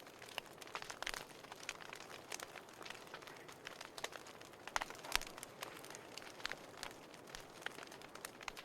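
Wood fire crackling in a fireplace: a steady hiss with frequent irregular sharp pops, a few of them louder.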